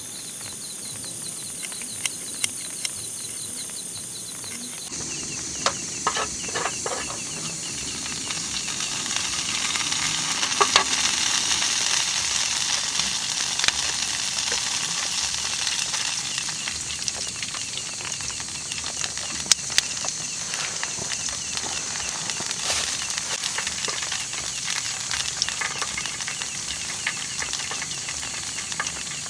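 Food sizzling steadily as it fries in oil in a pan, with scattered sharp crackles and pops. For the first few seconds a fast, high, repeating trill is heard instead.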